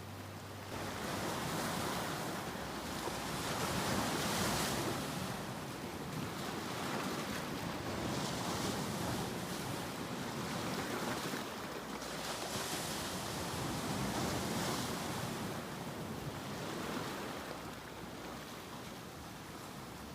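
Ocean waves washing in and drawing back, a continuous surf rush that swells and fades every few seconds.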